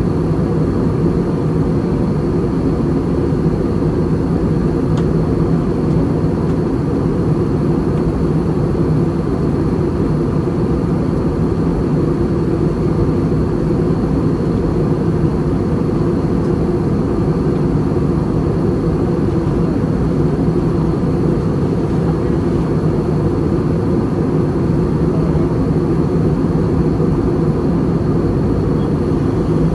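Airbus A320 cabin noise in flight: a steady, even drone of engines and airflow, with a faint steady high-pitched tone over it.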